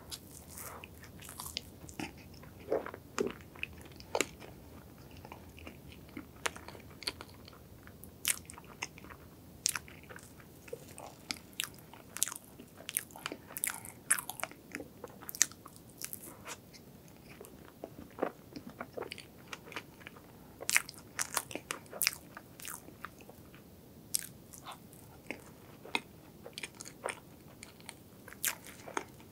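Close-miked eating of a soft strawberry crepe cake with cream: chewing with many sharp, irregular wet mouth clicks and smacks.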